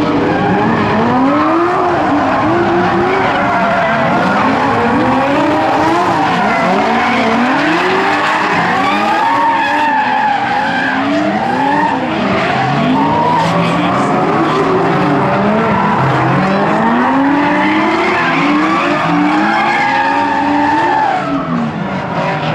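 Several drift cars running together in a tandem train, their engines revving up and down in overlapping rising and falling tones while the tyres screech.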